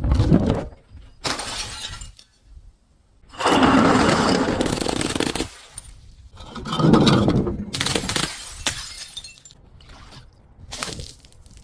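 Glass bottles breaking and being crushed: several separate bursts of shattering and crunching glass, the longest starting about three and a half seconds in and lasting about two seconds.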